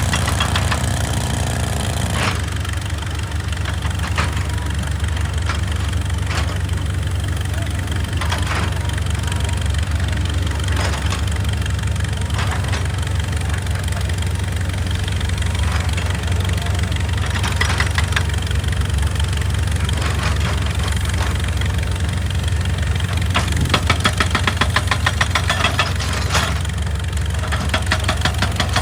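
Excavator's diesel engine running steadily, with sharp knocks at irregular intervals.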